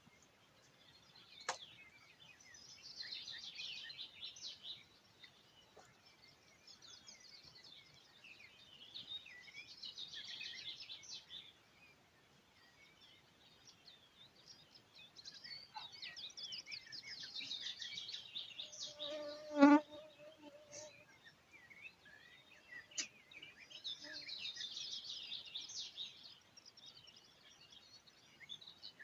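Songbird singing repeated phrases of about two seconds each, a few seconds apart. About twenty seconds in there is one short, louder pitched sound.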